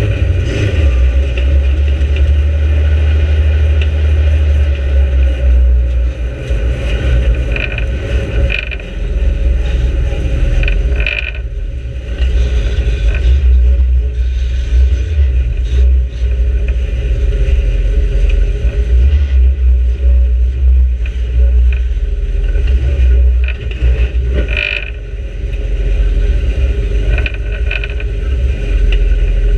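Micro banger stock car's engine running as the car drives slowly, heard from inside the stripped-out cabin as a loud, steady low rumble, with a few short squeaks.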